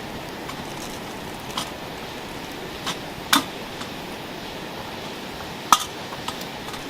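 A few sharp clinks and knocks of cooking utensils against cookware, the loudest about three and a half seconds in and again near six seconds, over a steady rushing background.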